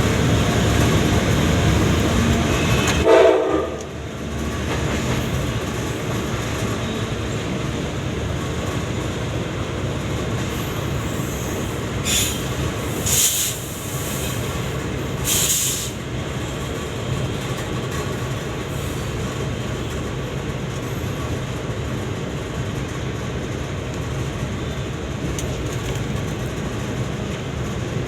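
Train running on the rails with a steady rumble, and a short horn blast about three seconds in.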